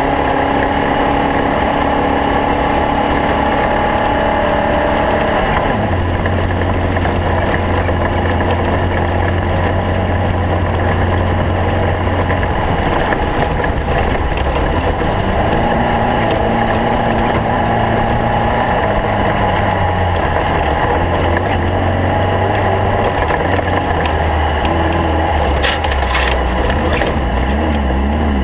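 Stock VW Beetle race car's air-cooled flat-four engine running hard, its pitch shifting several times as the revs change, with rough noise throughout and a few sharp knocks near the end.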